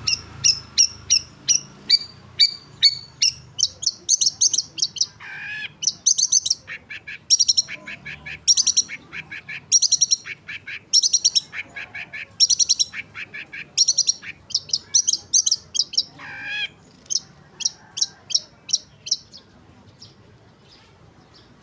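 Long-tailed shrike calling: quick runs of sharp, high chirps in repeated clusters, with two lower, falling calls about five and sixteen seconds in. The calling stops a couple of seconds before the end.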